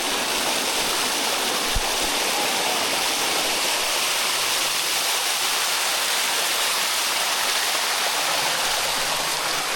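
Water rushing steadily over the limestone cascade of the Bua Tong sticky waterfall, close by, with one brief low knock about two seconds in.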